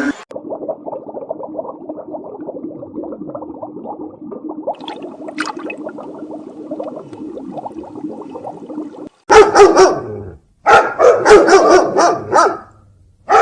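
Dog barking: a muffled stretch of lower, continuous sound, then a run of loud, sharp barks in two bursts over the last few seconds.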